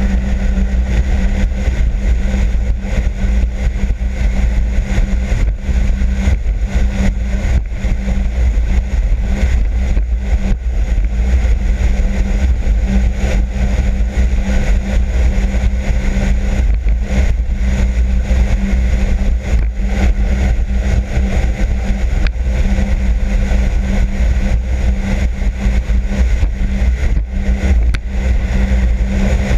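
Sea-Doo RXP-X 260 jet ski's supercharged four-stroke engine running steadily at a constant pitch, with a heavy low rumble underneath.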